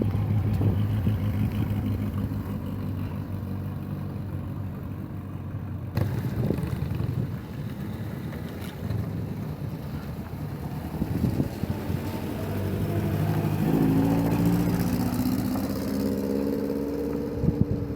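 Vehicle engine running at a steady low idle, then rising in pitch for a few seconds past the midpoint as it revs or pulls away.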